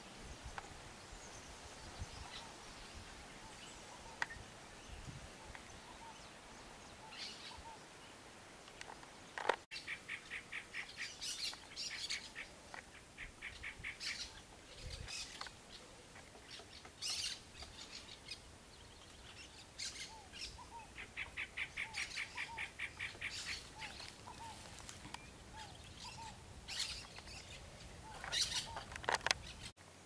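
Wild birds calling: several fast rattling series of short, high notes lasting a few seconds each, among scattered single chirps.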